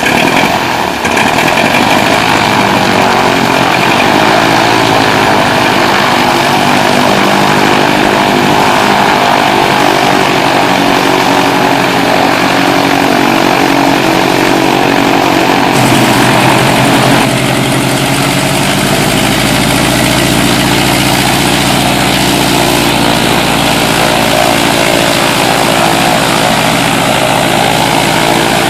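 Cessna 172RG's Lycoming O-360 four-cylinder, 180 hp piston engine running with the propeller turning. It holds a steady, loud drone, and its sound shifts slightly a little past the halfway point.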